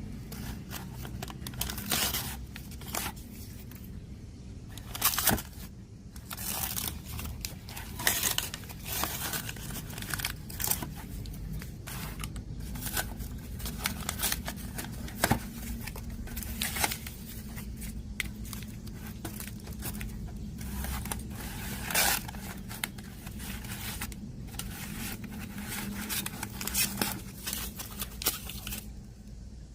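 Irregular scraping, rubbing and rustling strokes of hand work on a repair bench, some sharp and loud, over a low steady hum.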